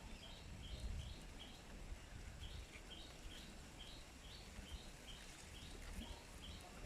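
Small birds chirping in short, high notes, about three a second and alternating between two pitches, over a low background rumble.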